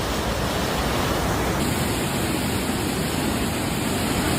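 Steady rush of fast-flowing floodwater, an even wash of noise with no breaks.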